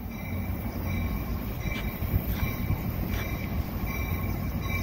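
Passenger train pulling slowly into the station: a steady low rumble of the train, with a faint high squeal from the wheels and a few light clicks.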